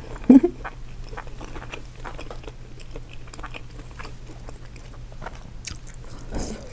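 Close-up eating sounds from a seafood boil: chewing and biting with small wet clicks and crunches throughout, and a louder crunch or rustle about six seconds in.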